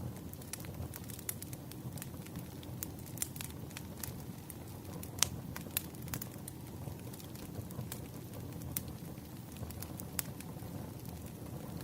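Wood fire crackling: irregular sharp pops and snaps over a low, steady rush, with the loudest pop about five seconds in.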